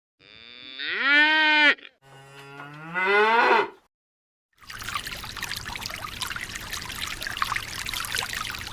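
A cow mooing twice, each call rising in pitch and then held, followed about a second later by a steady stream of water pouring.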